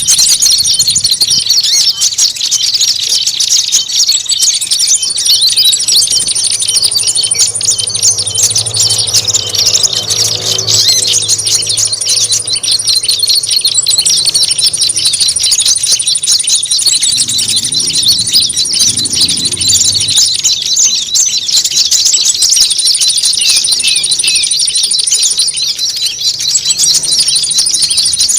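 Small-bird lure call (suara pikat): a dense, unbroken chorus of rapid high chirps and twitters from many small birds, made to sound like agitated, fighting birds so that small birds come in. A thin, very high trill keeps starting and stopping over it, each run lasting a few seconds.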